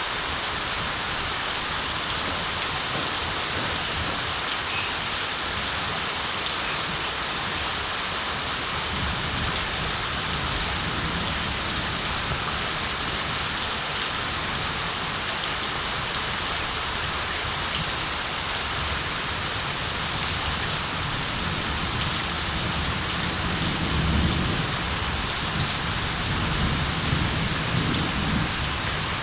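Steady rain falling in the countryside, an even hiss throughout. A low rumble of distant thunder swells near the end.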